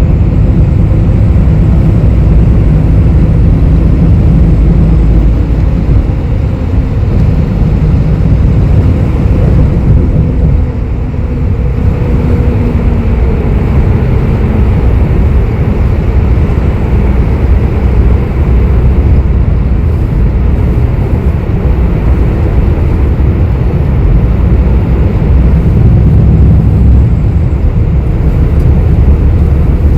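Cabin noise inside a city bus: a steady low engine and road rumble with engine tones that shift in pitch, easing briefly about ten seconds in.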